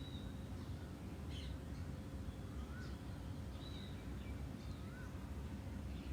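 Faint bird calls, a few short chirps and small rising notes, over a steady low background hum.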